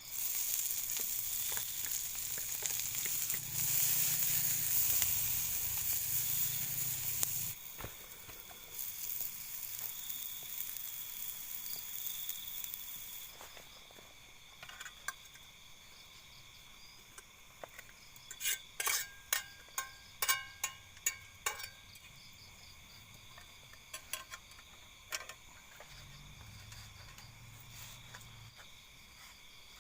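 Rice grilling in a nonstick pan, sizzling loudly for the first seven seconds or so, then fading to a soft hiss. Past the middle comes a quick run of sharp clicks and taps, with insects trilling steadily in the background.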